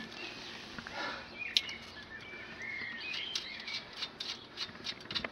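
Small birds chirping in short rising and falling calls, with a single sharp click about a second and a half in and a run of light ticks near the end.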